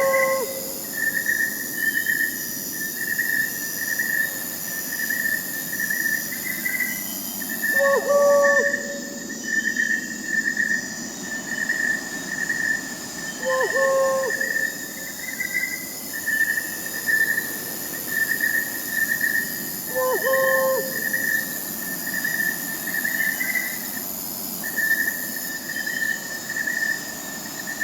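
Crickets chirping in a steady pulsing trill, with a faint high insect hiss. Over it, a single short hoot from an owl repeats about every six seconds.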